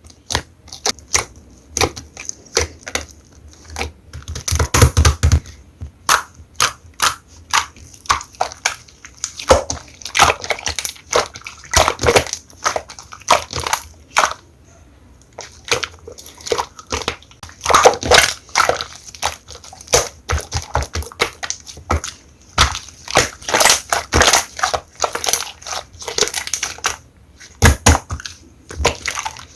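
Hands squishing and pressing blue slime, a fast, irregular run of sharp wet clicks, crackles and pops in clusters.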